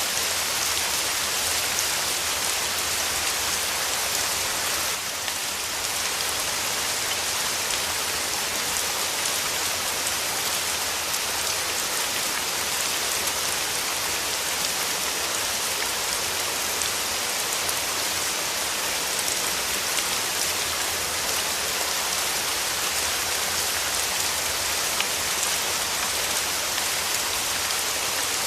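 Steady rain falling: a dense, even hiss of countless small drop impacts.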